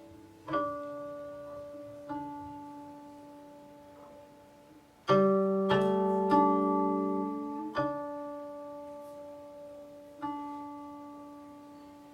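Guqin, the seven-string Chinese zither, played solo: sparse plucked notes, each left to ring and fade slowly. A louder group of notes comes in the middle.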